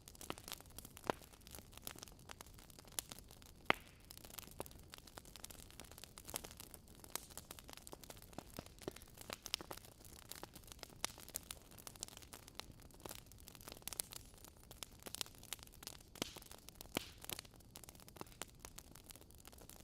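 Wood fire crackling: burning logs giving off irregular sharp pops and snaps over a soft steady hiss, one louder pop about four seconds in.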